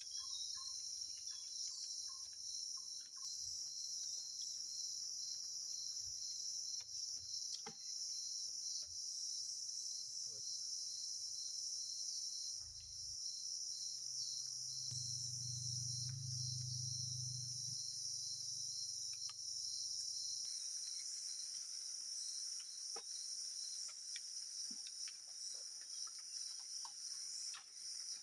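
Crickets and other insects in a steady high-pitched chorus.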